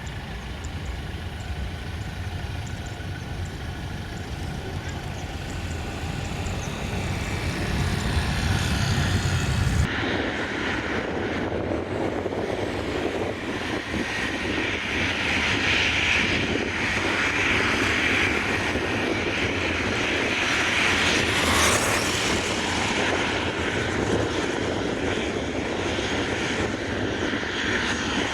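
Airliner engines running. A low rumble gives way suddenly about ten seconds in to a louder rushing engine noise that builds and holds.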